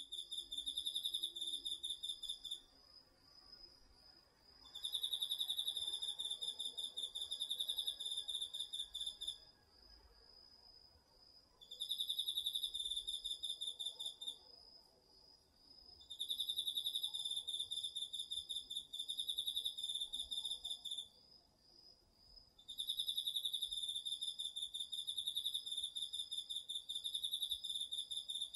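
An autumn insect trills at night in five long bouts of about three to five seconds each, with short pauses between. Under it, a second insect keeps up a fainter, steady, rapidly pulsed song at a slightly higher pitch.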